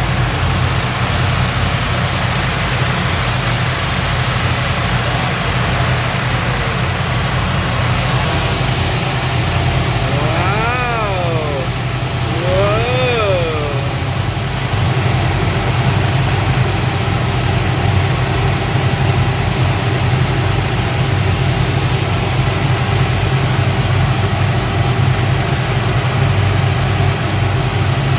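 Speedboat engines running steadily under way, a low drone over a constant rushing noise that gets a little louder about halfway through. Twice, around the middle, a short pitched sound rises and then falls.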